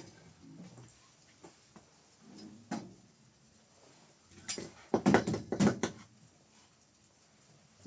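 Scattered light knocks and clicks, with a cluster of louder knocks and clatters about five seconds in.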